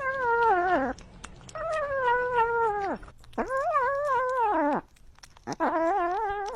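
Domestic cat giving four long, wavering meows in a row, each about a second long with short pauses between, the pitch wobbling and dropping at the end of each call.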